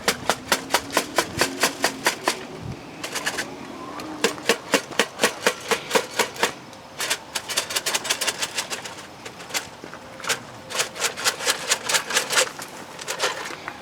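Rapid, regular mechanical clicking, about five clicks a second, in several runs broken by short pauses.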